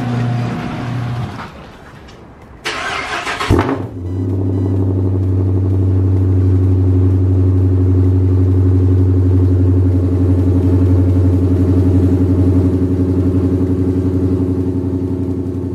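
A garage door opener hums and stops about a second in; then a Hemi V8 car engine cranks briefly, fires with a jolt and settles into a loud, steady fast idle on a cold start after sitting for three days.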